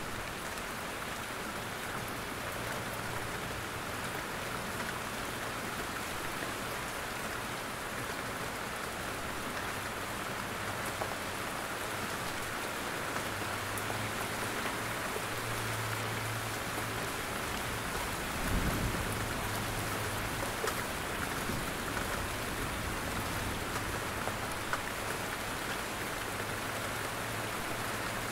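Steady rain falling through forest, drops pattering on leaves and ground. About two-thirds of the way through comes a brief low rumble, the loudest moment.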